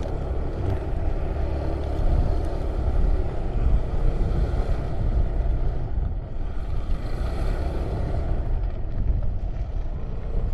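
Motorcycle running on the road, a steady low engine rumble mixed with wind rushing over the microphone.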